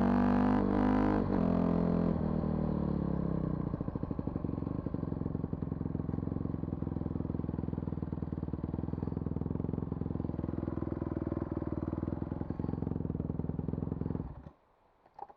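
Vehicle engine dropping from higher revs to idle, idling steadily for about ten seconds, then switched off and stopping abruptly near the end, with a small click just after.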